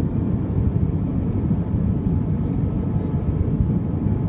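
Steady low rumble inside the cabin of an Airbus A320 airliner in descent: jet engine and airflow noise.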